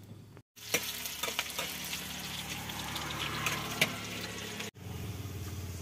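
Spices and food sizzling and crackling in hot oil in a pan, a steady hiss with scattered pops. Near the end it gives way to a steady low hum.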